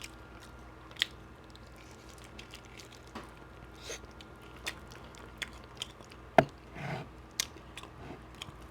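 Close-miked chewing and wet mouth clicks from someone eating a smoked beef rib, with scattered short clicks and one sharp click a little past six seconds in.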